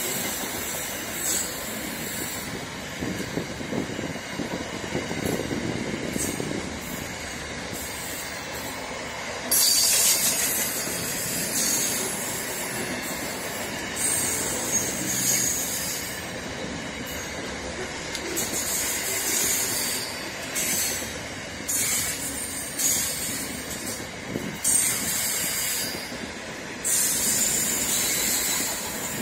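Freight train of container cars passing close at speed: a steady noise of wheels on rail, with bright, high hissing surges every few seconds.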